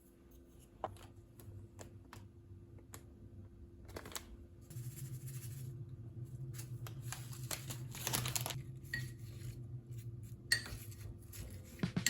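Kitchen handling sounds: scattered light clicks and clinks of dishes and utensils, with a low steady hum that starts about five seconds in.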